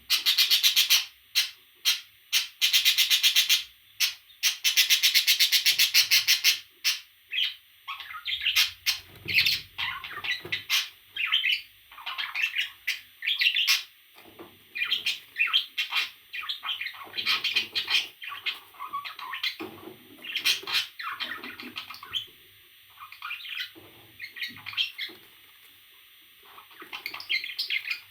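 A parrot calling: loud bursts of fast, rapidly repeated buzzy calls for the first several seconds, then a string of shorter, varied chirps and squawks.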